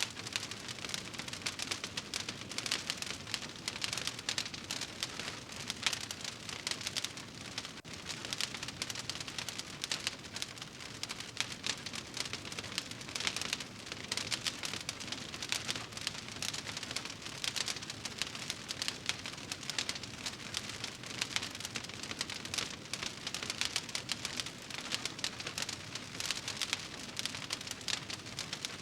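Fire burning in a fireplace, crackling steadily with a dense stream of small pops.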